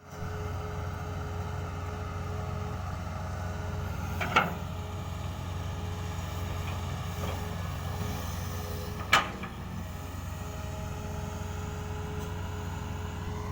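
Heavy-machinery diesel engine running steadily with a low rumble. Two sharp knocks come about four and nine seconds in.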